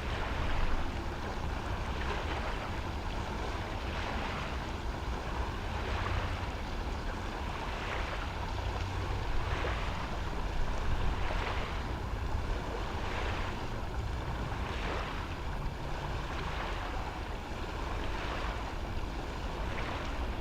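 Wind buffeting the microphone outdoors: a steady low rumble with soft whooshing surges about every one and a half to two seconds.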